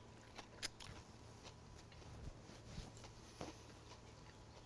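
Faint chewing of a breaded, shallow-fried egg salad sandwich: a few soft crunches and mouth clicks scattered over quiet room tone, the sharpest about two-thirds of a second in.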